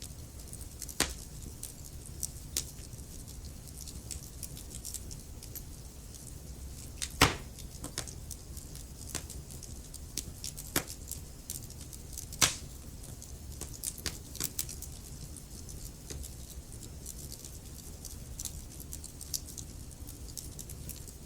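Wood fire in a fireplace crackling, with a dense stream of small ticks and a few sharp, loud pops, about 1, 7 and 12 seconds in, over a low steady rumble.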